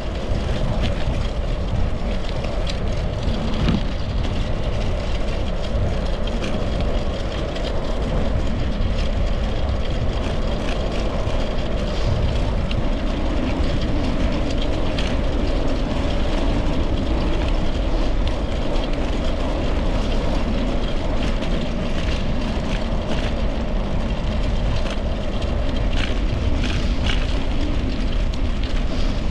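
Bicycle ride noise: a steady rush of wind on the microphone over the hum of tyres rolling on pavement, with scattered light ticks.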